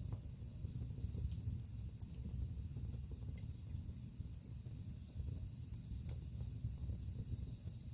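Wood fire burning in a fireplace: a low, steady rumble of flames with scattered crackles and small pops from the logs, the sharpest pop about six seconds in.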